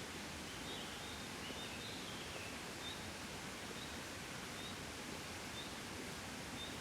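Soft, steady breeze: an even hiss of wind with no gusts. A faint short high chirp repeats about once a second, with a few falling chirps about one to two and a half seconds in.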